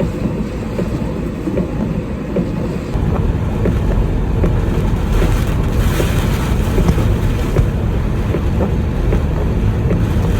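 Gale-force wind of Typhoon Nanmadol (2022 Typhoon No. 14) buffeting the microphone in a loud, steady low rumble that grows stronger about three seconds in.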